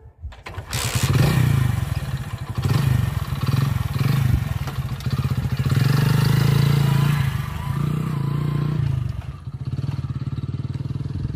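A Hero Splendor iSmart motorcycle's single-cylinder four-stroke engine is kick-started and catches about a second in. It then runs and revs unevenly as the bike pulls away, and the engine note drops somewhat near the end as it moves off.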